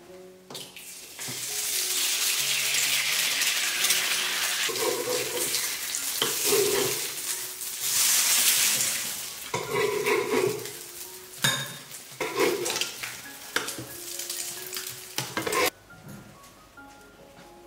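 Food frying in hot oil in a pan: a loud steady sizzle, with a utensil scraping and stirring against the pan a few times. The sizzle cuts off suddenly near the end.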